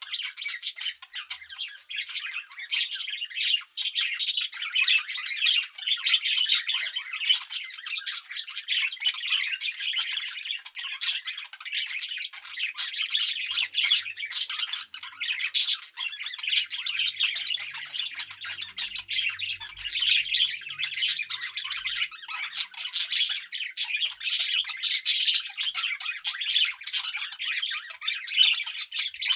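Several budgerigars chattering, a dense, continuous stream of short, sharp chirps and warbles.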